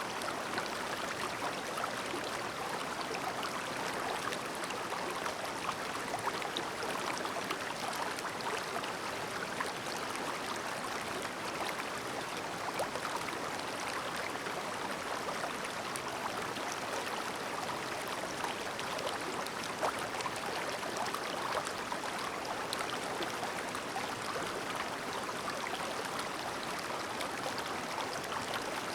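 Shallow, clear river babbling steadily over stones, a continuous rush of water with many small splashes and trickles.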